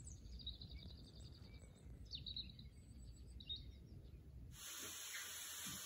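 Faint birdsong: a short trill and a few separate chirps over a low rumble. Near the end the birds stop and a steady hiss takes over.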